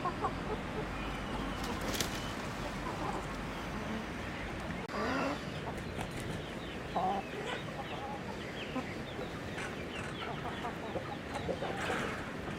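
A flock of chickens clucking and calling continuously, many short overlapping calls at once, with a sharp click about two seconds in.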